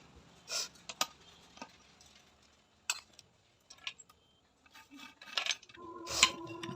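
Metal engine parts and tools clinking and knocking on a workbench, a few separate sharp clinks spread out, the loudest near the end.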